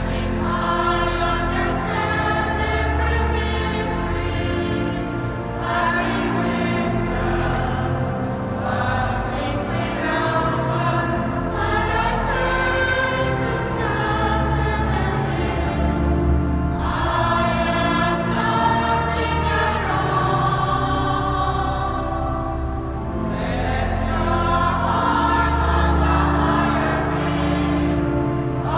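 Church choir singing a sacred piece over sustained low accompaniment notes, in the long reverberant acoustic of a large cathedral.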